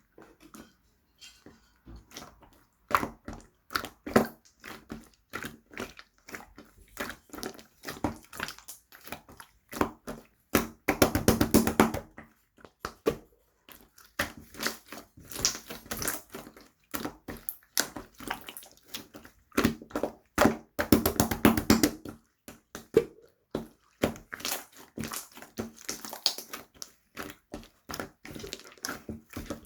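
Slime being squished and poked by hand, giving sticky clicks and pops, with two stretches of fast, dense squelching about ten and twenty seconds in.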